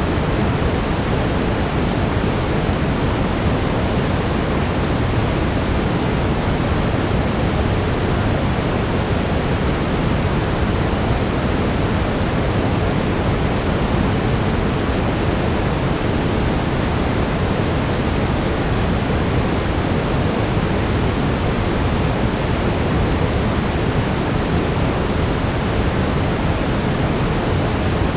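Steady brown noise: an even, deep hiss with its weight in the low end, without change or breaks.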